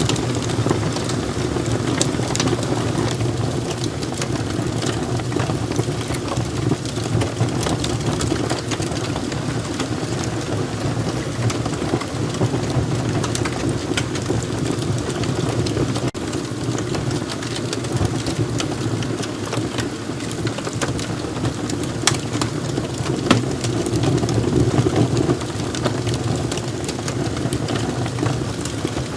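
Wood fire burning in a fireplace: a steady rush of flames with scattered sharp crackles and pops from the burning logs, one louder pop about three-quarters of the way through.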